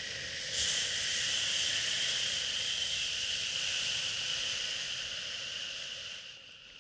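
A long drawn-out 'shhhh' shush, one breath that swells about half a second in and fades near the end, over steady white noise, the kind used to soothe a crying baby.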